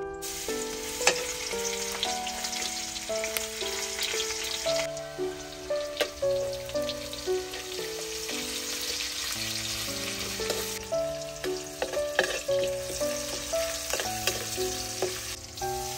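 Chopped onions, garlic and chili sizzling in hot oil in a steel wok, with a metal spoon clinking and scraping against the pan as they are stirred. The sizzle starts suddenly as they go into the oil. Gentle background music plays throughout.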